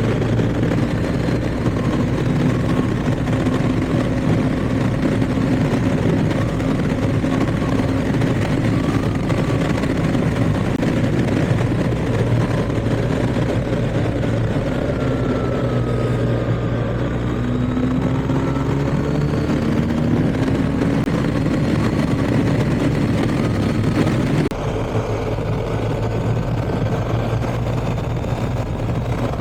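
BMW R1250GS boxer-twin motorcycle engine running under way, its pitch rising and falling as the revs change, over steady road noise. Near the end the sound drops a little and changes.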